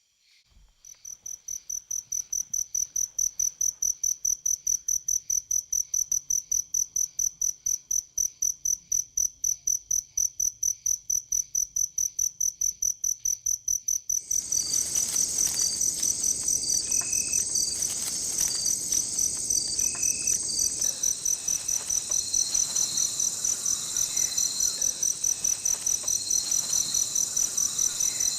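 Night insects chirping: a high, evenly pulsed chirp, about four a second, fades in over the first couple of seconds. About halfway a denser chorus of other insects joins and the sound grows fuller.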